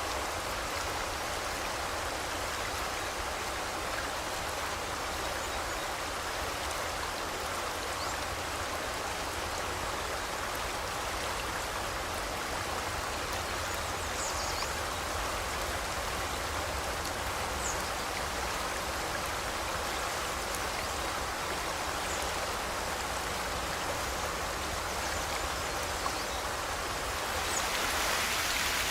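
Steady rushing of a forest river's flowing water. A couple of faint, brief high chirps come about halfway through, and near the end the water sound grows louder and brighter.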